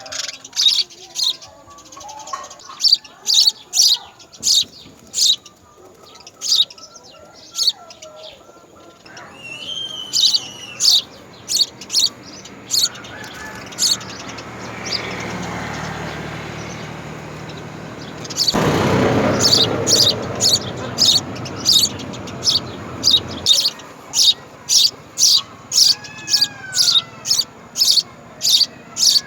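House sparrows chirping over and over: short, sharp chirps a few times a second. A rushing noise builds through the middle, jumps louder and then cuts off suddenly.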